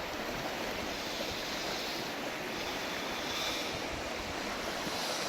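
Steady rush of running water, an even hiss that holds without a break.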